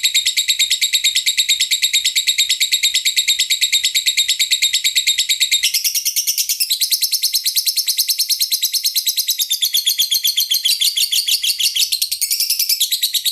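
Lovebird singing a long, unbroken run of rapid high chirps, about eight to ten a second. The note pattern shifts about six seconds in and again near the end.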